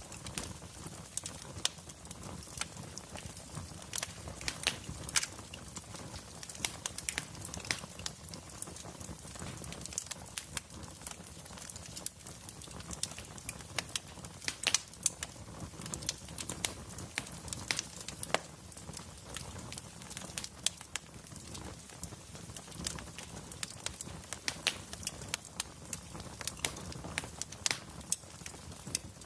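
Wood fire in a fireplace crackling: logs burning with irregular sharp crackles, a few of them loud, over a low steady rumble.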